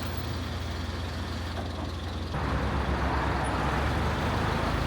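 Truck engine running at idle, a steady low rumble; the sound shifts abruptly about two seconds in.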